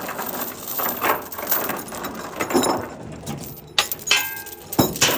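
Steel tie-down chain rattling and clanking as it is handled, with two sharp clanks near the end.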